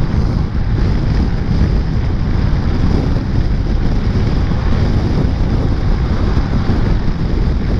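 Wind rushing over the microphone of a riding scooter's camera, a loud steady rumble that buries the engine and road sounds.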